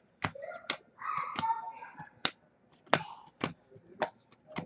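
Trading cards being flipped through and laid down one at a time, a sharp snap about every half second, with faint voices behind.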